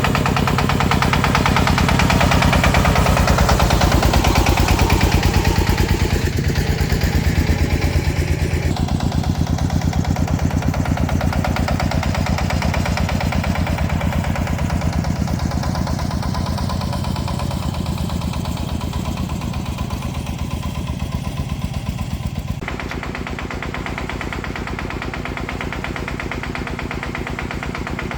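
Farm truck engine running steadily with a regular low pulse, its note changing abruptly a few times.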